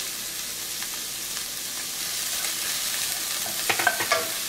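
Chopped onions, garlic and ginger frying in oil in a stainless steel pan, a steady sizzle. Near the end a plastic spatula stirs and scrapes against the pan a few times.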